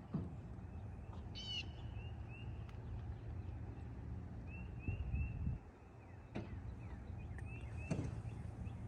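Birds chirping: runs of short repeated chirps and a quick trill about one and a half seconds in, over a steady low rumble, with a few sharp knocks.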